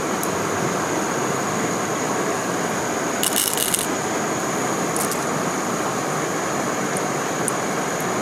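Steady rush of stream water below a waterfall, with a thin steady high whine over it. A brief bright clatter comes a little past three seconds in, and a few faint single clicks follow.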